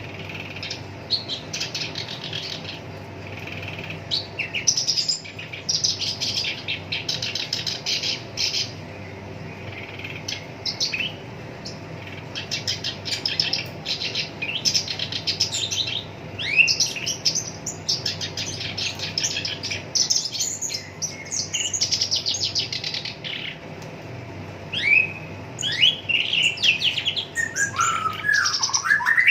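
Black-browed reed warbler singing a harsh, chattering song: runs of very rapid repeated notes in short bursts with brief pauses, and a few sliding notes near the end.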